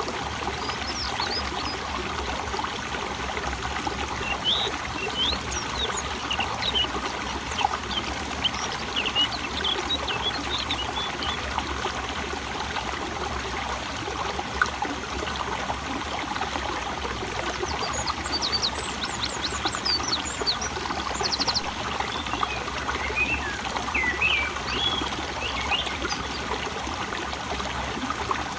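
Water trickling and flowing steadily, like a small stream, with birds chirping in scattered runs of quick high notes several times over it.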